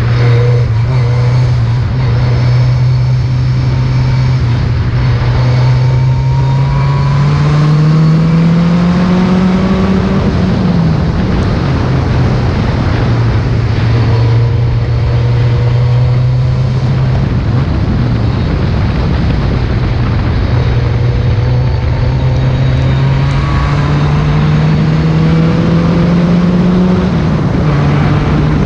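Ford Escort RS rally car engine running hard under load. It twice climbs slowly in pitch and then drops back, once about ten seconds in and again near the end.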